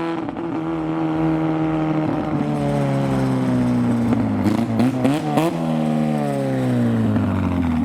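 Austin-Healey Sprite Mk II's engine running loudly as the car pulls away, its pitch sliding slowly down. A few quick throttle blips come midway.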